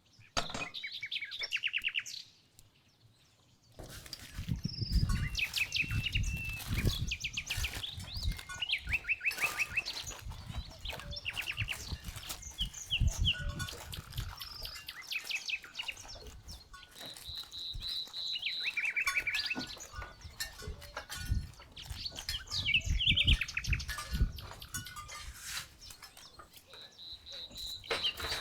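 Small birds chirping and trilling in repeated short phrases. From about four seconds in, a run of irregular knocks and clicks sits underneath.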